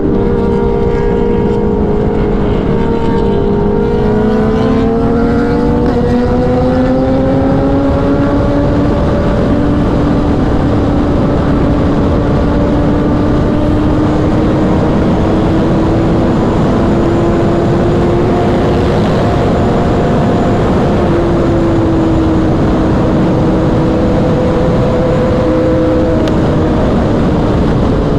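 Kawasaki inline-four superbike engine at highway speed. Its note climbs over the first several seconds as it accelerates, then holds a nearly steady high pitch, over a steady rush of wind noise.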